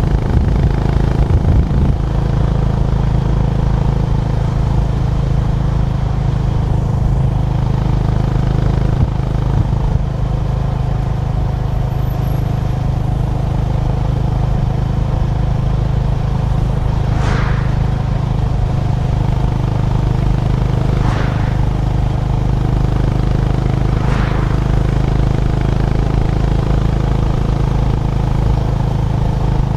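Honda GB350's single-cylinder engine running at a steady, even pace while the motorcycle cruises. Three brief whooshes come in the second half, a few seconds apart.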